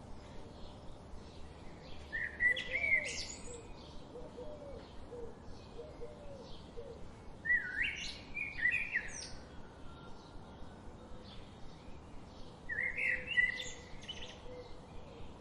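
Wild songbirds: one bird sings a short, sweeping phrase three times, about five seconds apart, over a steady run of faint chirps from other birds.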